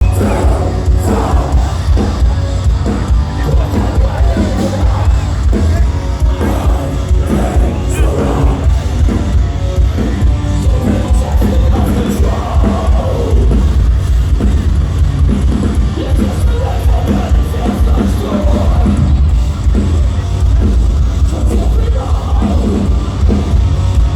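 Metalcore band playing live through a loud concert PA: a heavy, bass-laden band with fast drums and a vocalist, running without a break.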